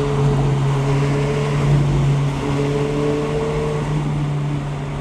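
Car engine running steadily, with held tones that step up and down in pitch as the revs change.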